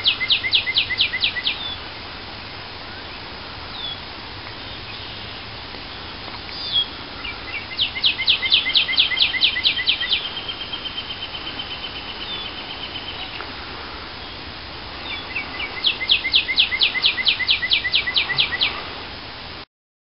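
A songbird singing three phrases of rapid repeated high notes, about six a second, with a thin, steady high trill between the second and third phrase. The sound cuts off abruptly near the end.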